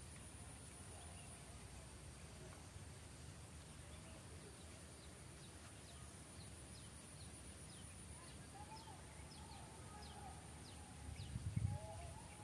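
Faint birdsong: a run of short, quick falling chirps from about a third of the way in, then lower, curved calls toward the end, over a steady high whine. A brief low rumble about eleven seconds in is the loudest moment.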